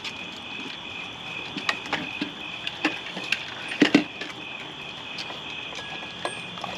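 Crickets chirping steadily in a high continuous trill, with scattered light clicks and knocks over it; the loudest are a pair about four seconds in.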